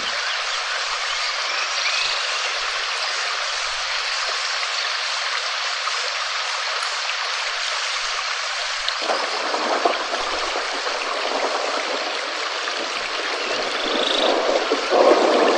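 Steady rain falling, a dense even hiss. About nine seconds in it turns abruptly fuller and lower, and it grows a little louder near the end.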